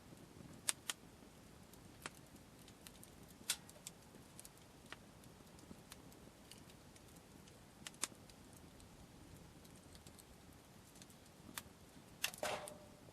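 Wood campfire crackling faintly, with scattered sharp pops a few seconds apart. Near the end comes a short, louder clatter with a brief ringing note.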